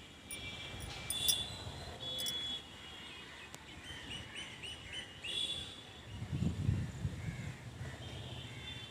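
Several birds chirping and calling, with a quick run of about six short repeated calls in the middle and a low rumble a little after.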